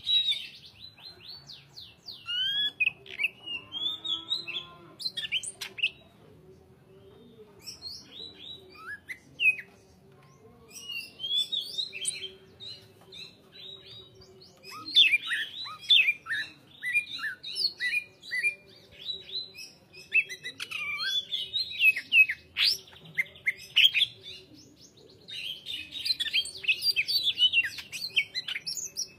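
Green leafbird (cucak hijau) singing in bursts of rapid, varied swooping whistles and chirps, each burst a few seconds long, broken by short pauses.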